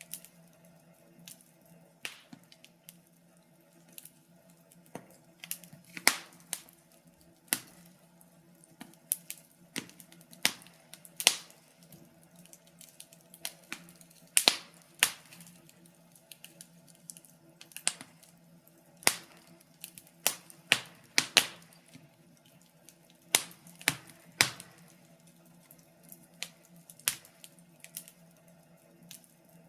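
Wood fire crackling: irregular sharp pops and snaps, a few of them much louder, over a faint steady low hum.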